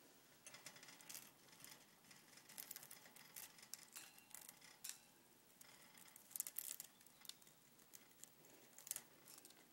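Budgerigar shredding a Cheerio with its beak: faint, irregular crunchy clicks and crackles.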